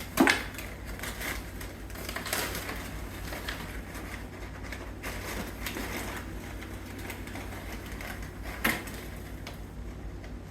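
Irregular rustling and scratching in a box holding treats, with a sharp knock just after the start and another near the end.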